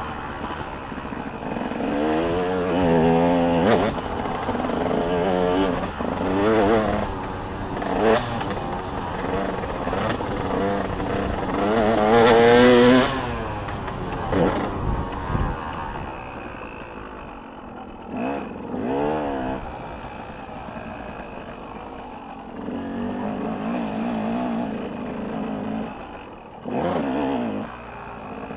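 Motocross dirt bikes revving hard and passing one after another, engine pitch climbing and dropping as riders work the throttle. The loudest pass comes about halfway through, and later bikes sound more distant.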